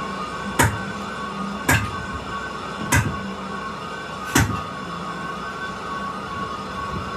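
Four heavy metal impacts, a little over a second apart, over the steady hum of workshop machinery; the impacts stop about four and a half seconds in and the hum runs on.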